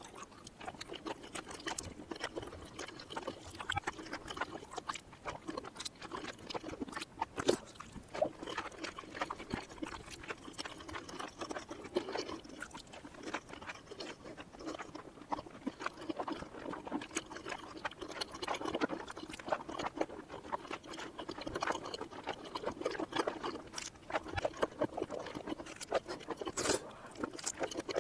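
Close-miked chewing and wet mouth sounds of eating cheesy mini rice cakes, played in reverse: a dense, irregular run of smacks and clicks.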